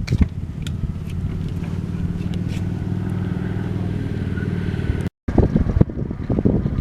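Motorcycle engine running steadily with a low, even hum. About five seconds in, the sound cuts out abruptly, and gusty wind buffeting on the microphone follows.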